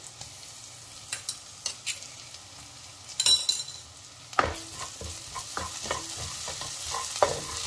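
Onions with freshly crushed garlic sizzling in hot oil in a steel kadai, with a few light clicks. A short clatter comes about three seconds in, and from about halfway a spatula stirs and scrapes against the pan in quick strokes.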